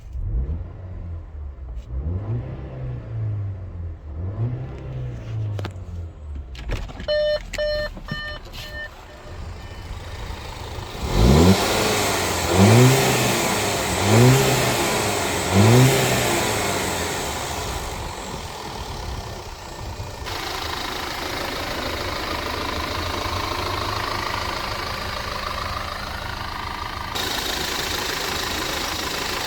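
2014 Audi Q5's 2.0-litre turbocharged four-cylinder engine revved in short throttle blips, then settling to a steady idle. A quick run of electronic beeps comes about seven seconds in.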